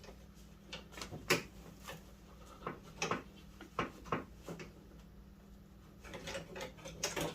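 Scattered sharp clicks and light knocks from hands working on the door-handle mechanism and rod inside an open car door, irregular and a second or so apart.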